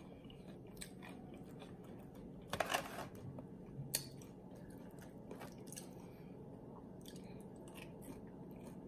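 Close-up chewing of loaded tortilla-chip nachos, faint crunching in the mouth with a few short crisp crunches, the loudest about two and a half seconds in.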